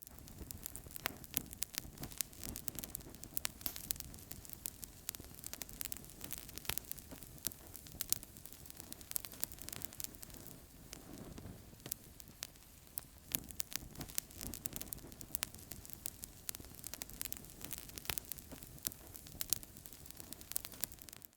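Wood fire crackling in a fireplace: frequent sharp pops and snaps over a steady low hiss of the flames.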